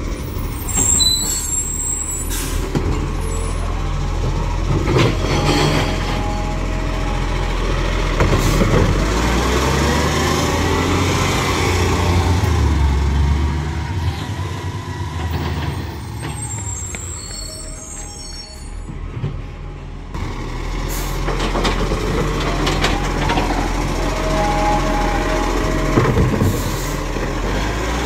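Garbage truck engine running, its loudness rising and falling, with short hisses of air brakes and a few sharp knocks.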